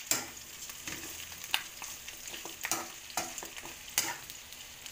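Boiled pork hocks sizzling in hot oil in a metal wok as they are browned, with a spatula scraping and clacking against the pan about once a second while they are stirred.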